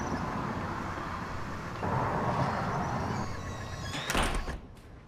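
A door moving and shutting, over steady background noise, with a louder clatter about four seconds in.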